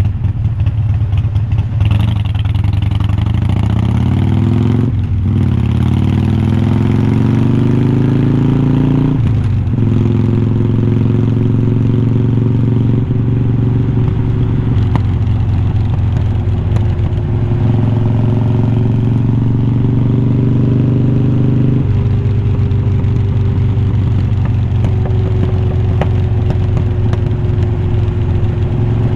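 A 2020 Harley-Davidson Iron 1200's air-cooled V-twin, heard through unbranded slip-on mufflers much like glass packs, pulls up through the gears. Its pitch climbs, with brief breaks for upshifts about five and nine seconds in, then it settles into a steady cruise.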